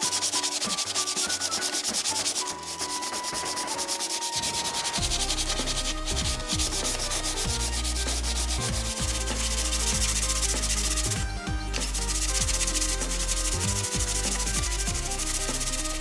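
Wood being sanded, a continuous scratchy rubbing of sandpaper on the planter's wood.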